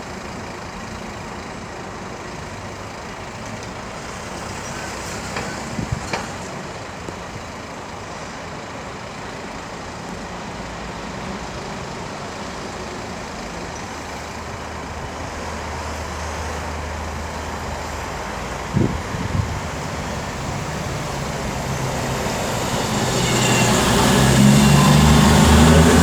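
Class 221 Voyager diesel-electric unit approaching through the station, a steady rumble with a low engine hum that grows louder over the last few seconds. Two brief knocks, about six seconds in and near nineteen seconds.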